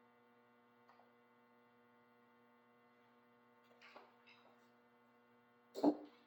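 Single drum hits on an acoustic drum kit, spaced seconds apart: a soft stroke about four seconds in and a louder, sharp hit near the end, over a steady electrical hum from the microphone and mixer chain.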